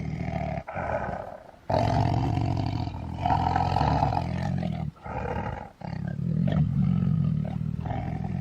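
Video-game Tyrannosaurus rex roar sound effects: several long, low roars one after another, with short breaks between them.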